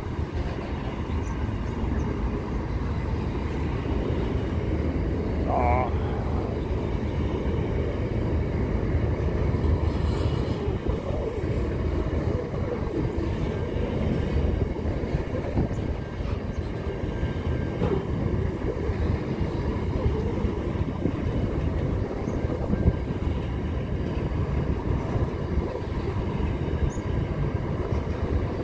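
Long intermodal container freight train rolling past, a steady rumble of its wagons' wheels on the rails.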